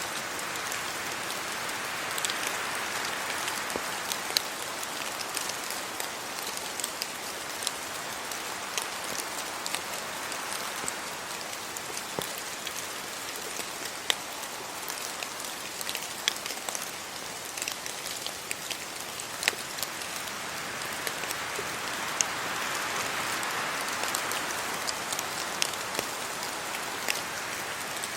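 Steady rain falling on tree leaves and a road, with many separate drops ticking sharply. The rain noise swells twice, near the start and about three quarters of the way through, as wind moves through the trees.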